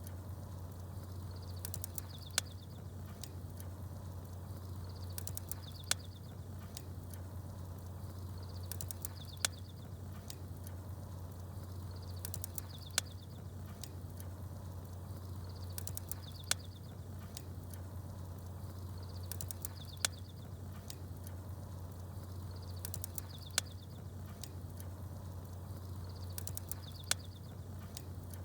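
Wood fire crackling with small birds chirping, over a steady low hum. A short burst of high chirps and one sharp crack come together about every three and a half seconds, repeating in the same pattern like a loop.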